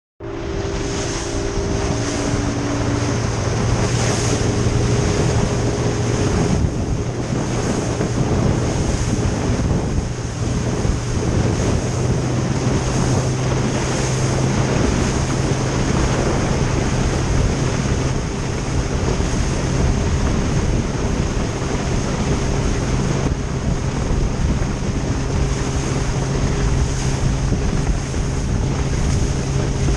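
A small boat's engine running steadily at speed, its hum stepping up slightly in pitch about twelve seconds in, with wind buffeting the microphone and water rushing past the hull.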